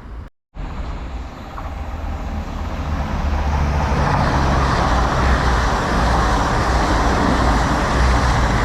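A train passing through a station without stopping, its rumble and rush building over a few seconds and staying loud.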